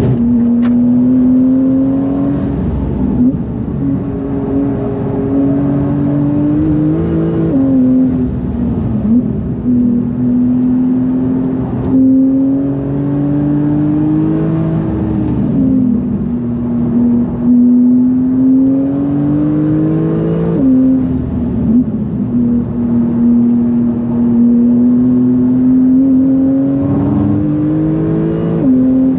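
Big-turbo Porsche 991.2 GTS's twin-turbo flat-six pulling hard. Its pitch climbs slowly under throttle and drops sharply at each of about four gear changes.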